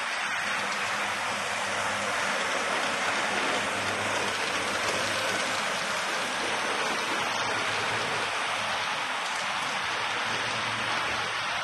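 Steady hissing noise with a faint low hum underneath, unchanging throughout.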